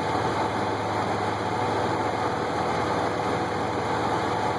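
The 3.3-litre VG33E V6 engine of a 1999 Nissan Pathfinder idling steadily. It is running smoothly now that the faulty camshaft position sensor, the cause of its misfire and hesitation, has been fixed.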